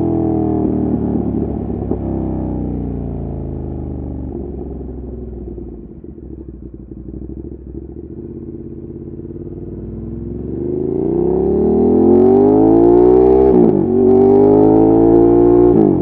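Ducati Monster 1200's L-twin engine through an Austin Racing exhaust, ridden: the revs fall as the throttle is rolled off and stay low and quieter for a few seconds. Then they rise steeply under acceleration, with a quick upshift about three-quarters of the way through before climbing again.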